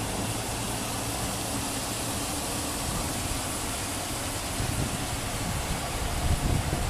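A vehicle running steadily, with a low hum under an even rushing noise; low rumbling grows louder near the end.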